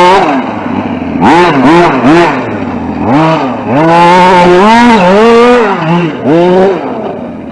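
Radio-controlled short course truck's motor whining, its pitch rising and falling over and over as the throttle is pushed and released.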